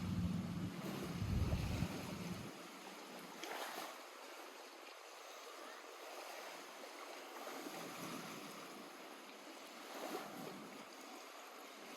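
Small lake waves washing and lapping at the shore, swelling a little about three and a half and ten seconds in. A low steady hum sounds under the water for the first two seconds.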